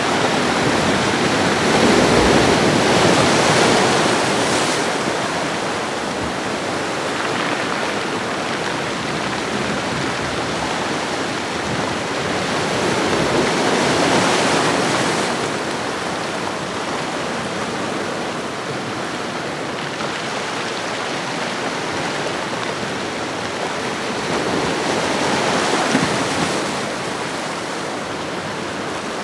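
Ocean waves washing on a shoreline: a steady rush of surf that swells three times, about every eleven or twelve seconds, and ebbs between.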